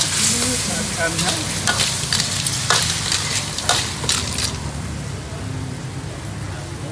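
Food sizzling in a hot pan, with a series of sharp scrapes and clanks of a utensil stirring it over the first four and a half seconds, after which the sizzle carries on quieter.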